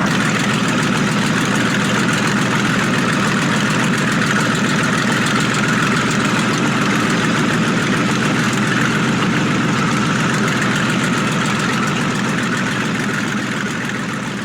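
Packard 4M-2500 V12 marine engine of a vintage Bentley-style special running steadily, fading out near the end.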